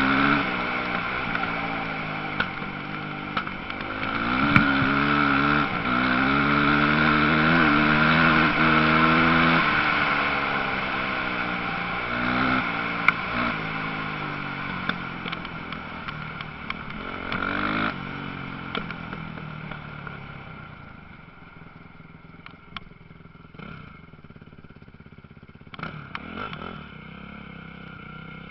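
Motocross motorcycle engines revving, their pitch rising and falling over and over as the bikes run the track. They are loudest in the first ten seconds, and the sound fades away over the last third, where a few sharp clicks stand out.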